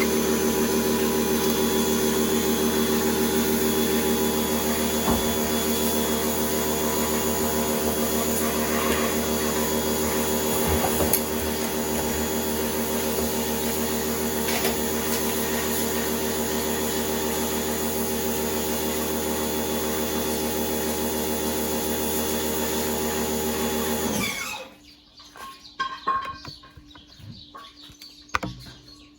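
An electric power tool's motor runs steadily at a constant pitch, dips slightly in level about 11 seconds in, and is switched off about 24 seconds in. Light, irregular knocks and clatter of handling follow.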